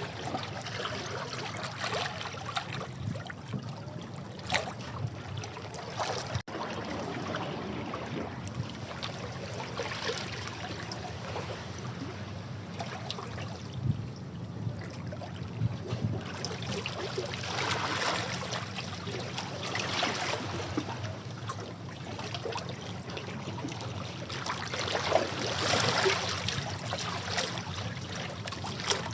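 Sea waves breaking and washing over rocks: a continuous wash that swells every several seconds, with sharper splashes among it.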